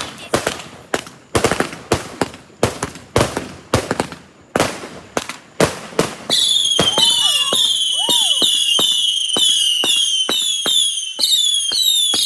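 Consumer firework going off: a string of loud bangs, about two a second, then from about halfway a shrill whistling with pops continuing underneath.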